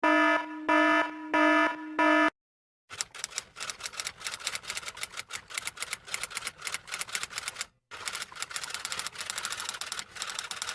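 A buzzy electronic tone that swells four times in about two seconds, then a short gap, then rapid typing clicks in two long runs with a brief pause between them.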